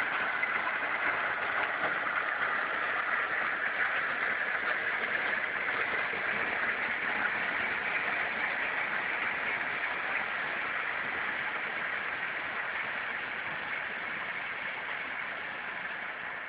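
Ballast works train running: a steady rushing noise that slowly fades away over the last several seconds.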